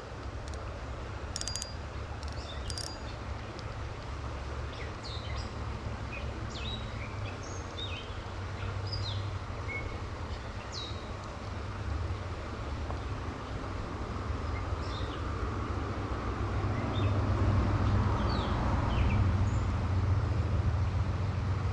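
Outdoor ambience with a steady low rumble and many short, scattered bird chirps. A few sharp clicks come in the first few seconds.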